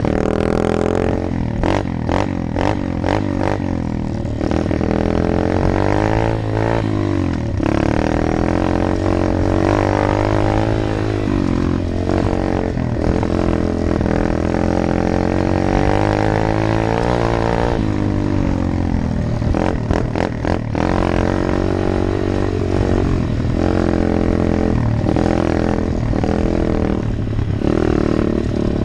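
Single-cylinder engine of a 125 cc Apollo dirt bike running under way, its pitch climbing and dropping again and again as it revs through the gears, with some clatter in places.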